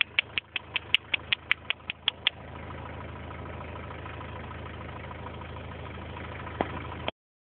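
A vehicle engine idling with a steady low hum. Over the first two seconds a quick run of about a dozen sharp clicks comes at roughly five a second, and there is one more click near the end. The sound cuts off abruptly about seven seconds in.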